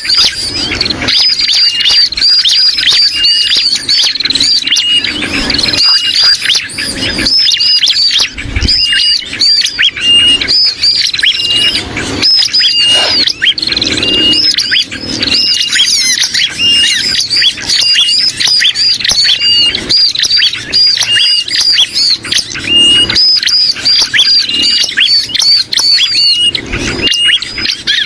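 Loud, dense overlapping bird calls from a bird-lure recording: bar-winged prinia calls mixed with the agitated alarm and distress calls of sooty-headed bulbuls. The short, high notes repeat rapidly without a break, with one clear note recurring about once a second.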